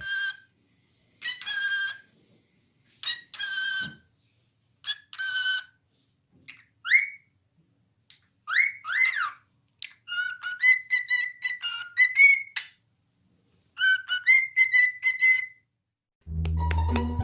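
A parrot calling and whistling: a few separate calls of under a second each, then upward-sliding whistles, then two quick runs of chattering calls, with silences between. Music comes in near the end.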